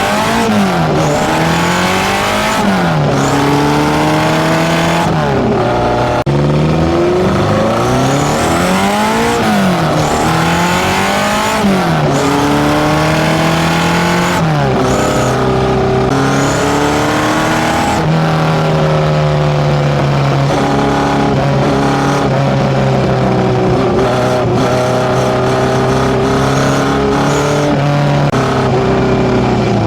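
Fully tuned Datsun A15 four-cylinder engine on motorcycle FCR41 carburettors, heard through a one-off 54 mm stainless exhaust. It is blipped hard again and again, the revs rising and dropping sharply, and later settles to a steadier, rumbling idle with small rises in revs.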